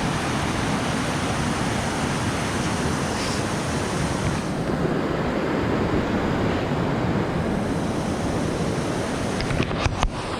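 River water rushing over rocks at the falls, a steady roar. A few sharp knocks near the end.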